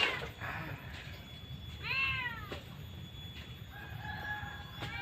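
A cat meowing: three drawn-out meows about two seconds apart, each rising then falling in pitch.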